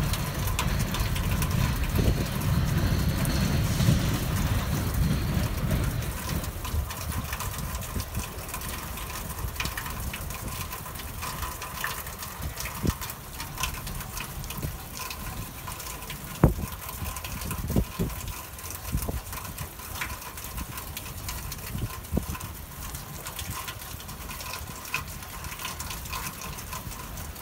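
Herzog work train's low rumble fading as it pulls away, gone after about six seconds. What remains is a steady hiss of rain with scattered small clicks.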